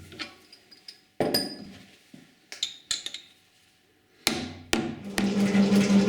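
Several sharp metallic knocks and clinks of tool work. About four seconds in, a metal shaper starts up and settles into a steady hum with a fast rhythmic beat from its strokes.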